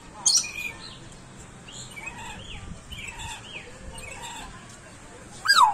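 Bird calls: a loud short call just after the start, a run of quick chirps in the middle, and a loud call falling in pitch near the end.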